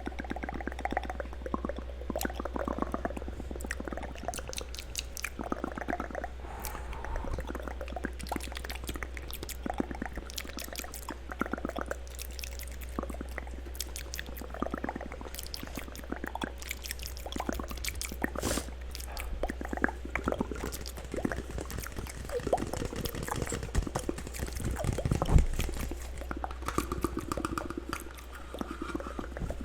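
Layered wet mouth sounds close to the microphone: a dense, irregular run of clicks, smacks and wet pops, over a steady low hum. One louder thump comes late on.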